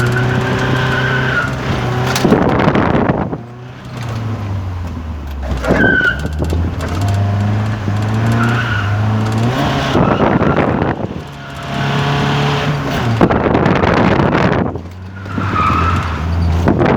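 Nissan Laurel Altima's stock CA20S four-cylinder engine revving hard and falling back, with the tires spinning and briefly squealing as the car slides on wet pavement, heard from inside the cabin. The revs drop off three times, a few seconds apart.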